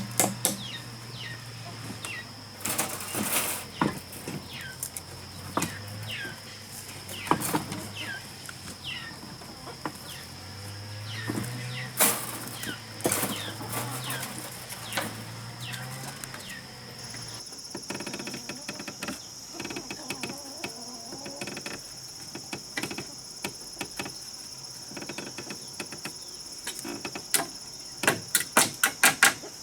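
Irregular knocks and taps, in quick runs near the start and near the end, with short falling chirps and a steady high-pitched drone behind them.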